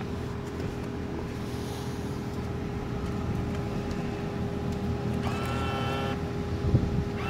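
Car engine idling steadily, heard from inside the vehicle. About five seconds in, a flat pitched tone sounds for about a second.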